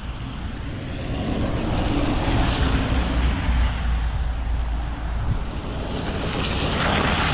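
Wind rumbling on the microphone of a Sur-Ron electric dirt bike being ridden along a snowy road, over steady riding noise.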